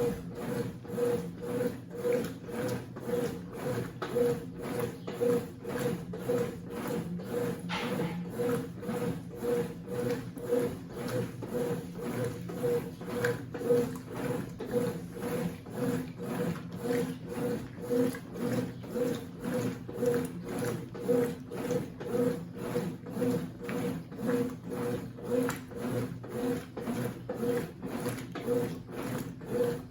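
Consul 8 kg (CWC08) washing machine agitating a bedspread in its wash cycle: the motor hums while the drum churns back and forth in regular, rhythmic strokes.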